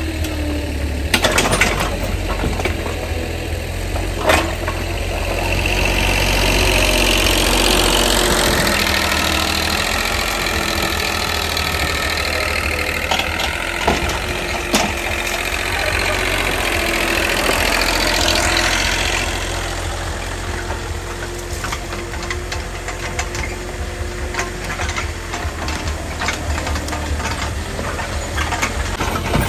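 An engine running steadily, growing louder for a stretch in the middle, with scattered clicks and knocks.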